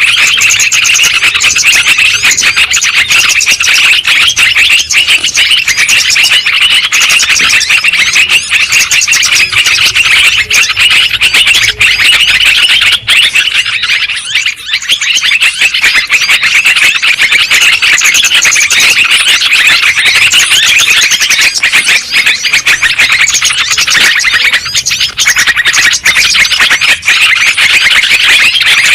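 Sooty-headed bulbul (trucukan) song: a loud, rapid, unbroken chatter of chirps and trills, with a short lull about halfway through. It is the lively 'gacor' song played as a lure to draw wild bulbuls in.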